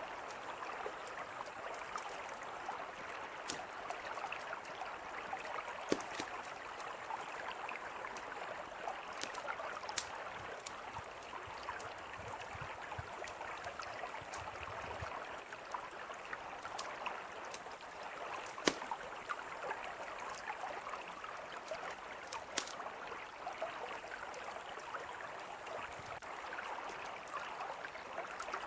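A mountain river flowing in a steady rush, with a campfire crackling over it in scattered sharp pops, two of them louder than the rest.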